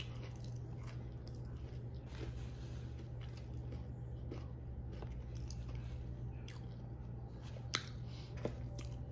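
Close-up mouth sounds of a Philly cheesesteak sandwich being chewed, faint, with a few small clicks over a steady low hum; one sharper click comes near the end.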